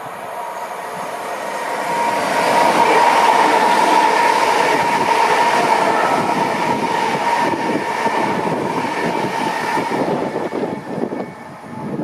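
A train passing along the platform, growing louder over the first two seconds, with a steady high whine and wheels clicking over rail joints, then fading near the end.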